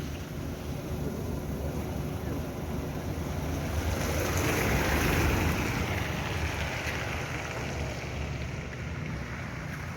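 A vehicle driving through deep floodwater: the engine runs steadily underneath while water rushes and splashes around it, swelling louder in the middle and then easing off.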